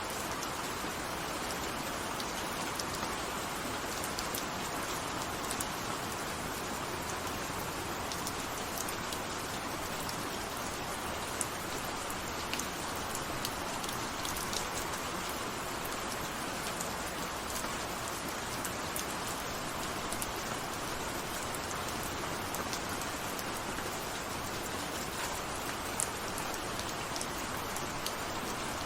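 Steady rain falling, an even hiss with the sharp taps of individual drops scattered through it.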